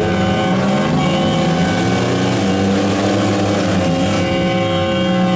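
Engines of demolition derby vans, trucks and SUVs running and revving, several at once, with pitches that shift and then hold steadier later on.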